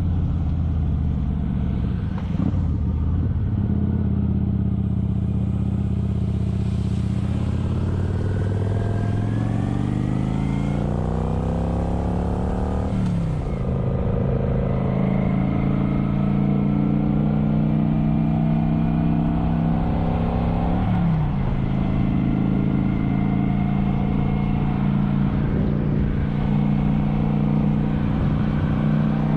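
Kawasaki Vulcan 900 V-twin engine under way, its pitch rising steadily for several seconds as it accelerates. The pitch drops sharply a little before halfway at an upshift, dips again briefly about two-thirds in at a second shift, and then holds steady at cruise.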